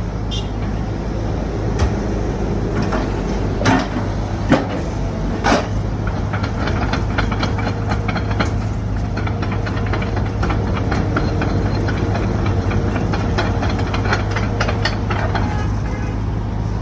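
Sumitomo SH120-1 excavator's diesel engine running steadily, with a few sharp knocks in the first six seconds, then a busy metallic rattle of rapid clicks through the middle.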